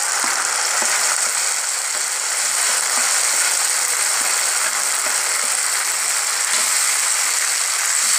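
Onion and garlic frying in hot oil in a kadai, sizzling steadily as puréed tomato is scraped in from a wooden spatula and stirred, with a few light ticks of the spatula.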